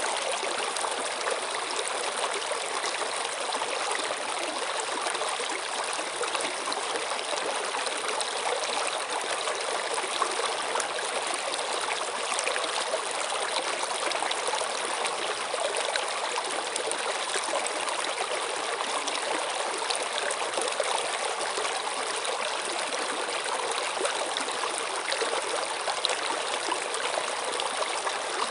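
Stream water running and trickling, a steady babbling wash with fine splashy detail and no change in level.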